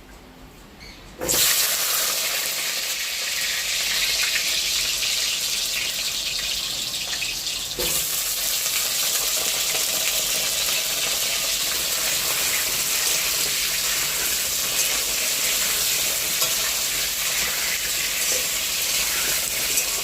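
Cut potato pieces frying in hot oil in a pan. The sizzling starts suddenly about a second in, then holds steady. The potatoes are being part-fried (half-fried) before going into the curry.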